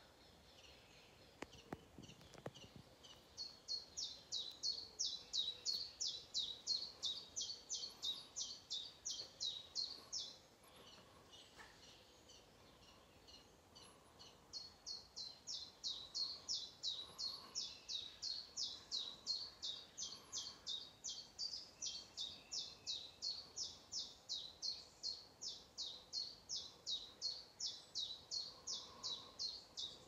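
A small songbird repeating one quick high note about four times a second, in a run of about seven seconds and then, after a short pause, a longer run of about fifteen seconds.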